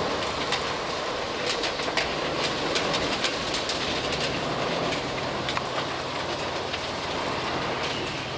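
Track works with a Renfe series 592 diesel railcar passing slowly: a steady machine and engine rumble from the railcar and a track maintenance machine at work, with a run of sharp clicks, densest in the first half.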